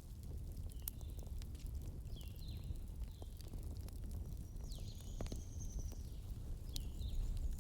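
Wood fire crackling in a fireplace: a steady low rumble with scattered sharp pops and snaps, and a few short, high squeaking whistles that slide downward in pitch, one held a little longer about five seconds in.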